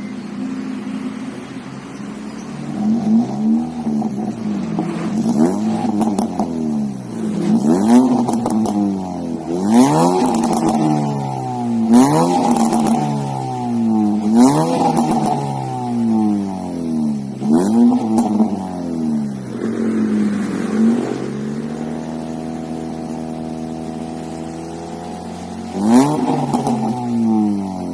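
Honda Brio's four-cylinder engine revved repeatedly through an aftermarket Alpino F03 bolt-on exhaust, its pitch rising and falling about every two seconds, with a sharp crack at the top of several revs. It settles to a steady idle about two thirds of the way through, then revs once more near the end.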